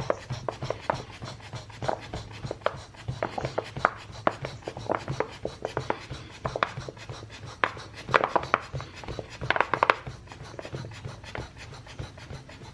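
Built-in hand-press pump of an inflatable air seat cushion being pressed over and over, a quick run of short strokes of pumped air, several a second, as the air cells inflate.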